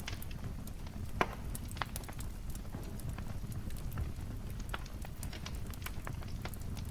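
Wood fire crackling in a fireplace: scattered sharp pops and snaps over a low steady rumble of flames, with one louder pop about a second in.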